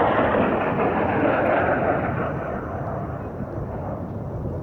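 Thunderbirds F-16 jet flying past, its engine noise loud at first, then fading and dropping in pitch as it moves away.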